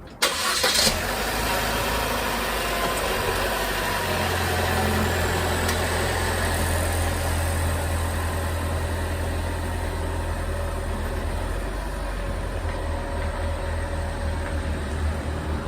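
A car engine starting right at the start, with a brief loud burst as it catches, then running at a steady idle.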